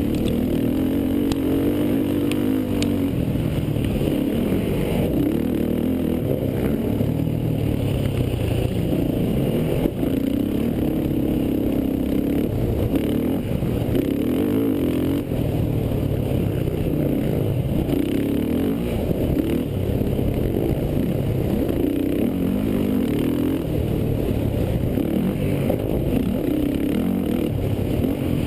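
Racing quad (ATV) engine running hard, its note rising and falling over and over as the throttle is worked.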